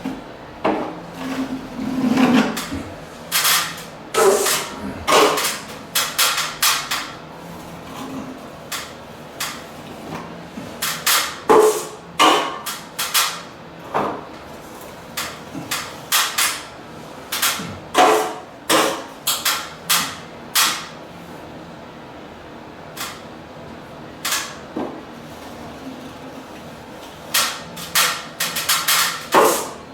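Hammer blows: irregular runs of sharp taps and knocks with short pauses between them.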